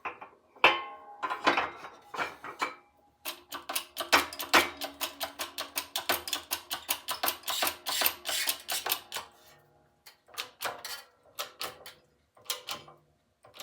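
Hand tools working metal parts of a Snapper mower's differential: a quick run of sharp metal clicks, about six a second, for several seconds, with scattered single clicks and knocks before and after.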